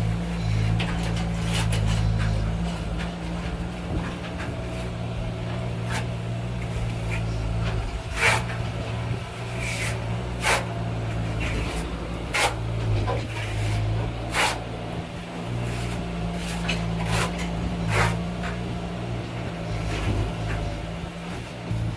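A steady low engine or motor hum with sharp knocks or clacks at irregular intervals, about five of them standing out.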